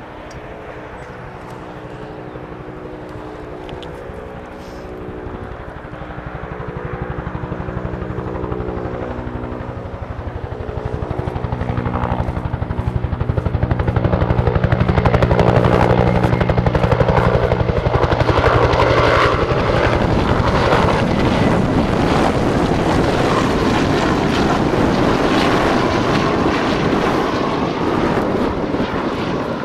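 Helicopter flying in and passing overhead: its steady rotor hum grows louder over the first half, then gives way to a louder, rougher rotor noise that holds to the end.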